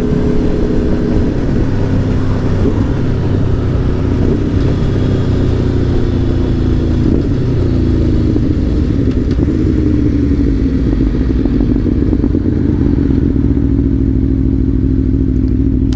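Aprilia Tuono V4 1100 Factory's V4 engine running as the bike slows, its note falling gradually throughout, over a steady low rumble.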